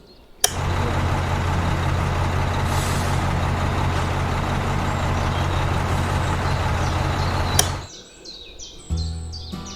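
A vehicle engine running steadily, low and even. It starts abruptly about half a second in and cuts off suddenly near the end.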